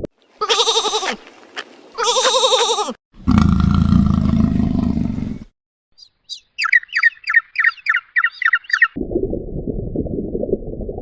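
A string of separate animal sounds joined by abrupt cuts. It opens with two wavering bleats, then a low-pitched call. A bird follows with about three seconds of rapid, high chirps falling in pitch, roughly three a second, and a low rumbling haze closes it.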